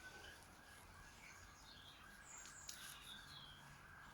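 Near silence, with a few faint, short high bird chirps in the second half over a faint steady hum.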